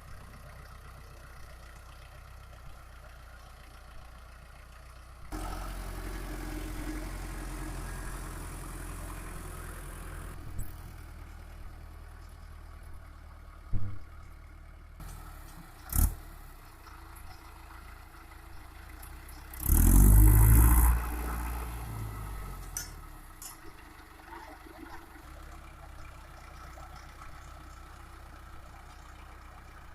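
Mahindra Arjun 555 DI tractor's four-cylinder diesel engine running steadily. It grows louder for about five seconds early on and is broken by a couple of sharp knocks. Near the middle there is a brief, very loud burst of noise.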